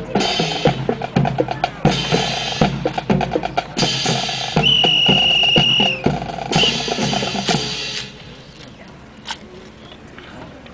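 Drill drum section playing a rapid snare and bass drum cadence, with four short bursts of bright clashing and a long steady whistle blast about halfway through. The drumming stops about 8 seconds in, then one sharp click.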